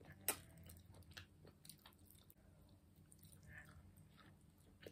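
Close-up chewing and mouth clicks from eating a mouthful of noodles, with a sharp clink of a metal fork against a glass bowl about a third of a second in.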